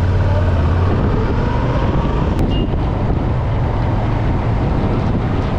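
Motorcycle riding at speed, with wind buffeting the microphone; the engine's steady low note stands out for about the first second before the wind rush covers it.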